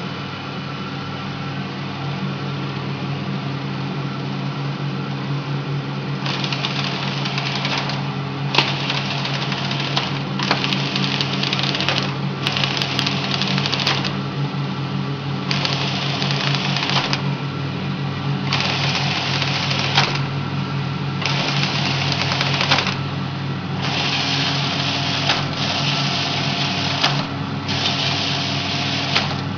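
Omori STC-VII stretch wrapping machine running with a steady motor hum. From about six seconds in, a hissing burst comes every couple of seconds, lasting one to two seconds each, with a sharp click at the start of some, as the machine cycles.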